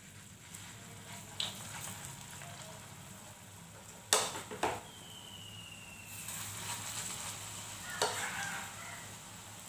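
Spoonfuls of thick banana and semolina batter dropped into hot mustard oil in a kadai, sizzling as the fritters fry, the sizzle growing after about six seconds. Sharp taps of the spoon on the pan come about four seconds in, twice, and again near eight seconds.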